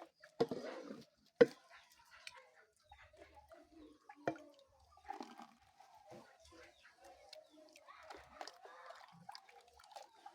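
Chickens clucking softly in short, scattered calls, with a few sharp taps among them.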